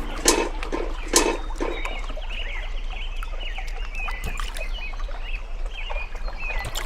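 Birds chirping, many short quick calls overlapping, like a flock of poultry or chicks; a few sharp knocks sound in the first two seconds.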